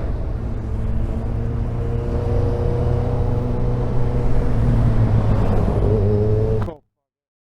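Honda VFR1200F's V4 engine running on the move, with a steady low drone that gets a little louder partway through. It cuts off abruptly about a second before the end.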